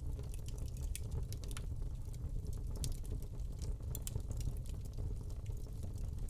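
Wood log fire crackling in a fireplace: irregular sharp pops and snaps, several a second at times, over a steady low rumble of the burning.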